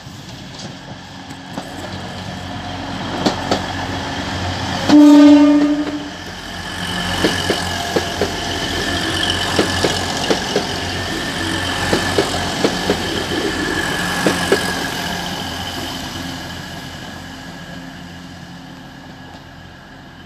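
A passenger train sounds its horn once, a single note held for about a second, the loudest sound. It then passes at speed, its wheels clicking over the rail joints, the noise building and then fading away.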